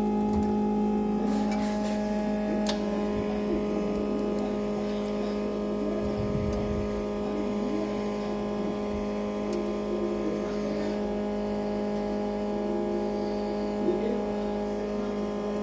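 A small electric motor humming steadily at one unchanging pitch, switched on through a freshly grounded lead, with a couple of sharp clicks a second or two in.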